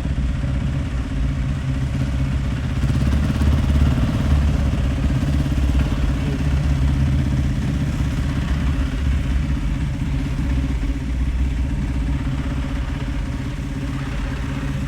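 Motorcycle engine running steadily at low revs, an even low rumble with no revving.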